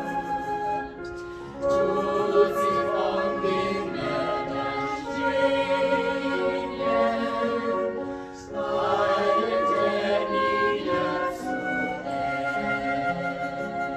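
Church choir singing in long, held phrases, with short breaks between lines about one and a half and eight and a half seconds in.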